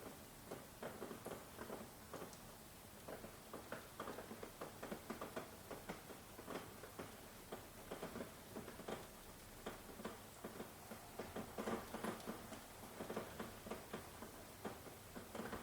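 Rain pattering, with many separate drops ticking irregularly close by over a steady hiss.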